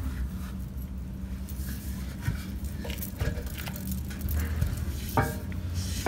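A few scattered metal clinks and taps of hand tools and brass valve fittings being handled at a cast-iron radiator's valve, over a steady low hum.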